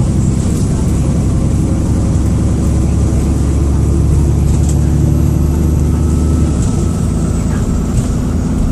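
Dennis Trident II / Enviro400 double-decker bus heard from inside, its diesel engine running under load with a thin high turbo whistle, like a kettle about to boil, above it. About six and a half seconds in the engine note drops away and the whistle slides down in pitch.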